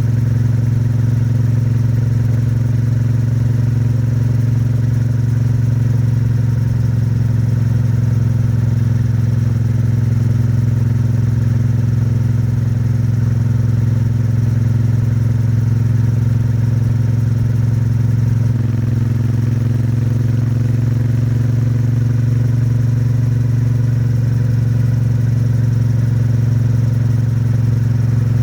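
Triumph Bonneville T100's 900 cc parallel-twin engine and exhaust running steadily while cruising on an expressway. The engine is held at modest revs in the late stage of its break-in, and the note shifts slightly about two-thirds of the way through.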